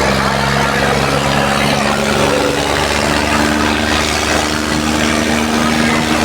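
Tractor diesel engine running steadily, its note stepping up a little about halfway through.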